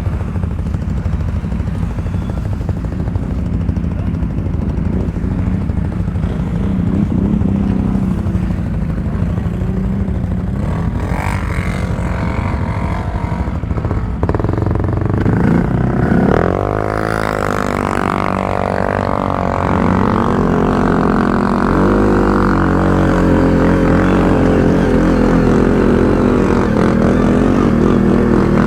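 ATV engine running under way on a trail, a steady low rumble. About halfway through, background music with a deep droning tone comes in and takes over.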